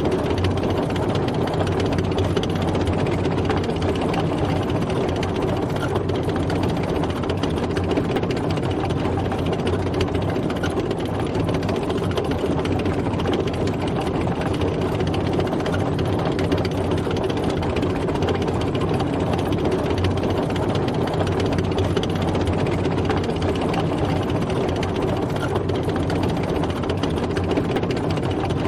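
Tank driving, its heavy engine running steadily with the clatter of the tracks.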